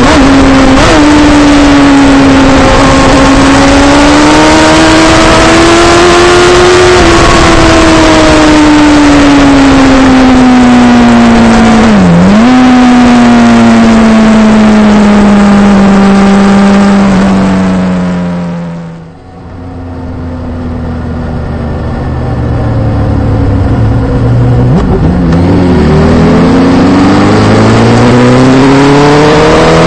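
2006 Suzuki GSX-R1000's inline-four engine heard from on the bike at speed, with heavy wind rush over it. The engine note sags slowly, with a brief sharp dip about twelve seconds in. Around two-thirds through, the engine and wind fall away sharply as the bike slows, then the engine note climbs again as it pulls away.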